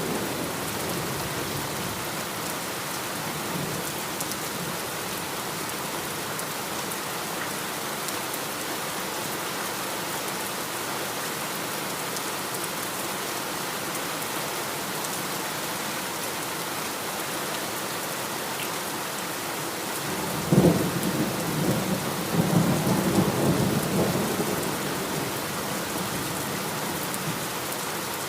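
Heavy rain falling steadily, with a sudden thunderclap about two-thirds of the way through that rumbles on for a few seconds before the rain alone is left.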